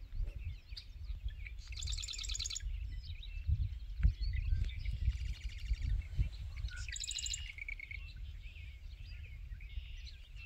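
Marsh wrens singing rapid, rattling trills, several songs in a row, among scattered chirps of other marsh birds, over a steady low rumble.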